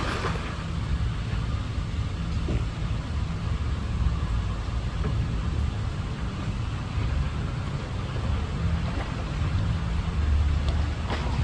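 Steady low rumble under a continuous noisy hiss, with no distinct events.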